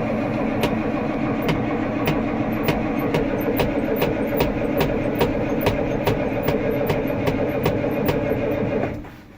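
Mack Econodyne diesel engine of a garbage truck running at idle just after a cold start, with a sharp tick about twice a second. The sound cuts off suddenly about nine seconds in.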